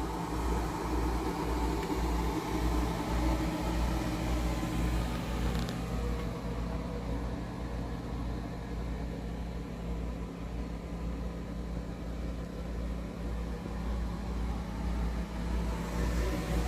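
Steady low mechanical hum with a fluctuating low rumble underneath.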